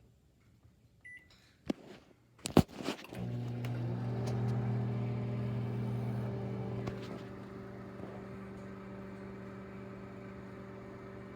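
Microwave oven started: a short keypad beep and a couple of clicks, then the oven runs with a steady hum, which drops a little in level about seven seconds in.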